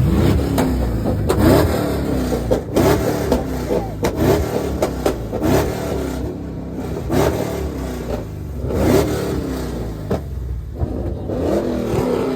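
Car engine revved hard in repeated blips, its note rising and falling about every one and a half seconds. Sharp cracks come from the exhaust as it spits flames.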